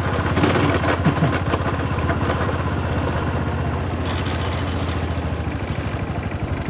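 Yamaha SRX400's single-cylinder four-stroke engine running steadily with an even, rapid beat, on a bike whose owner suspects a blown transmission and a slipping clutch.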